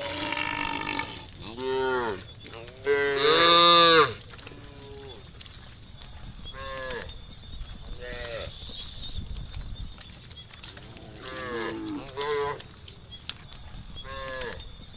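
A herd of cows mooing, one call after another with short gaps, several calls overlapping. The loudest is a long moo about three seconds in.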